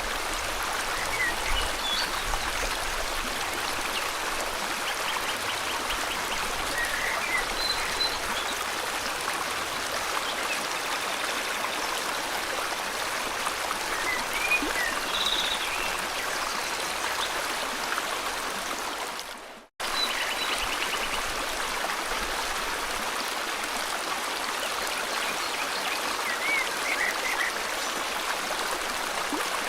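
River water flowing steadily, with scattered short bird chirps over it. About two-thirds of the way through, the sound dips out for a split second and comes straight back.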